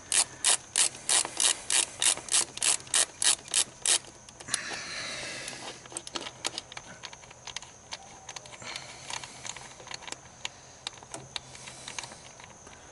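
Hand ratchet with a 10 mm socket clicking as it backs out a screw holding the HEMI's ignition coil plate. The first four seconds are an even run of sharp clicks, about four a second. A brief scraping rub follows, then slower, fainter clicks.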